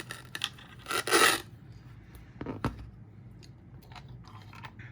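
Pedal board parts being handled: a short rasping scrape or rip about a second in, then a few light knocks and clicks.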